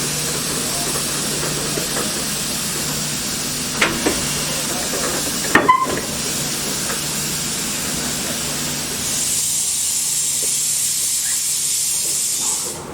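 Steam locomotive hissing steam, with a few short metallic clicks around four and six seconds in. From about nine seconds a louder, high-pitched hiss of escaping steam sets in and cuts off suddenly just before the end.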